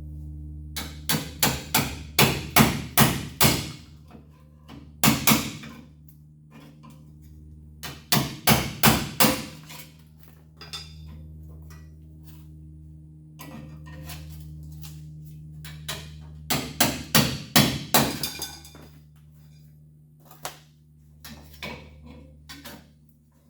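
Hammer blows in bursts of several quick strikes, about three or four a second, with lighter taps near the end, over a steady low hum.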